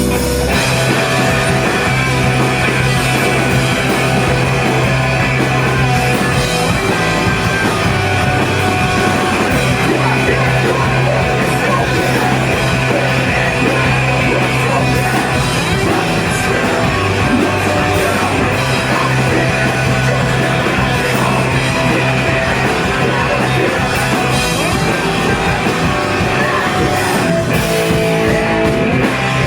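A loud, heavy rock band playing live in a screamo/post-hardcore style: distorted guitars and drums with vocals over them. The sound runs dense and steady throughout.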